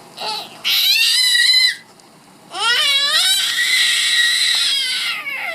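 A baby's high-pitched squealing laughter: a short squeak, then two long wavering shrieks, the second lasting nearly three seconds.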